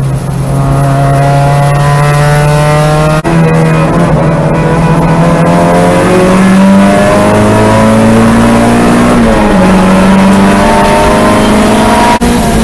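Mazda Miata's four-cylinder engine pulling hard under acceleration, its pitch climbing steadily with road speed over wind and road noise in the cabin. About nine seconds in the pitch drops at an upshift and then climbs again. The sound cuts out briefly twice, near three seconds and near the end.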